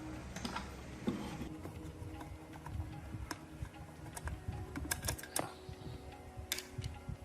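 Irregular light clicks and knocks of small parts and tools being handled, over faint background music.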